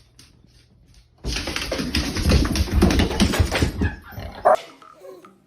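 A dog barking and whimpering, starting about a second in, with a short high cry near the end.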